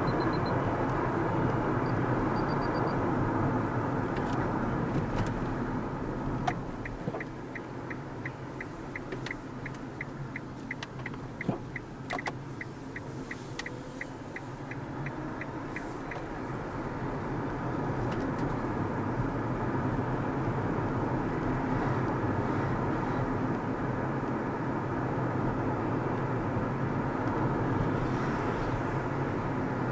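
Car cabin road and engine noise. From about six seconds in, and for about ten seconds, the turn-signal indicator ticks steadily while the road noise eases, as for a roundabout turn; after that the noise builds again.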